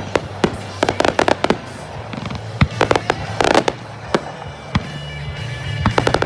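Fireworks going off in rapid clusters of sharp bangs and crackles, densest in the first second and a half and again around three and a half seconds in, with music playing underneath.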